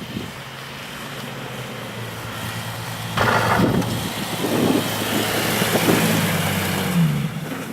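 A motor vehicle passing close on the street: a steady engine hum that grows louder, then a rush of tyre noise from about three seconds in as it goes by.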